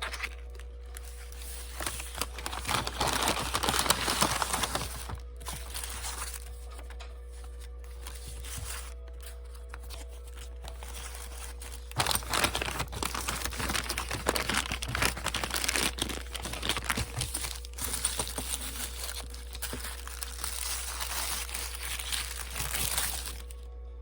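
Packaging being handled and opened by hand: crinkly crumpling and tearing, in a burst a couple of seconds in and again in a longer run through the second half.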